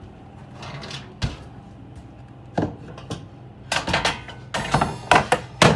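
Knocks and clatter of items being handled and set down in an RV kitchen, growing busier in the second half, over a steady low hum.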